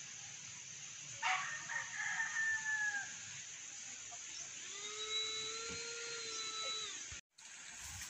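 Rooster crowing twice: a shorter crow about a second in and a longer one about five seconds in, over a steady high hiss.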